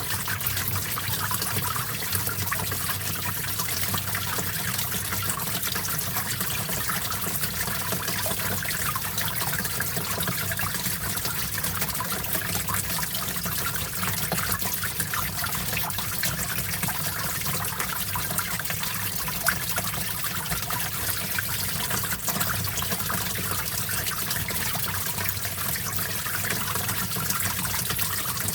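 Stream water flowing and trickling steadily, a continuous wash of small splashes.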